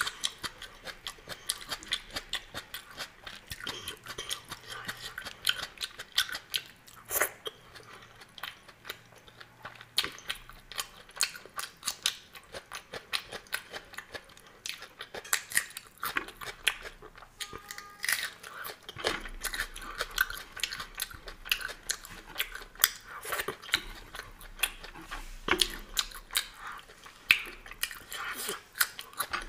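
Close-miked eating by hand: chewing and crunching of food, with many short crisp crunches and wet mouth sounds all through.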